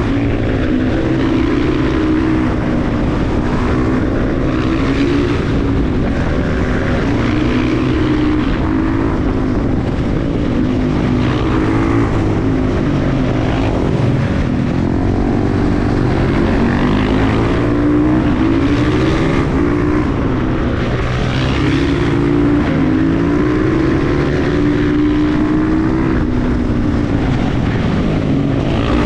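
KTM 350 EXC-F single-cylinder four-stroke motorcycle engine being ridden hard, revving up and dropping back again and again every couple of seconds as it pulls through the gears and backs off.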